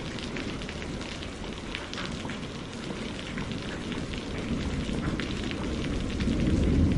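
Steady rain falling on a greenhouse roof, heard from inside, with the patter of individual drops. A low rumble of thunder builds up near the end.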